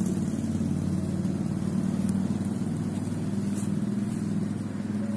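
A motor vehicle engine running steadily, slowly getting quieter.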